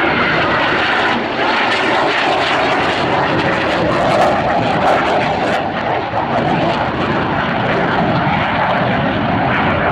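Jet noise from a Northrop F-5E Tiger II fighter's twin General Electric J85 turbojets during a flyby: loud and steady.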